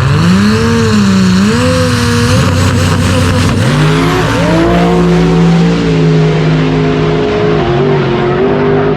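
Drag-racing car engine revving, its pitch rising and falling unsteadily, then dipping and climbing sharply about three and a half seconds in and holding a high, loud note with small steps.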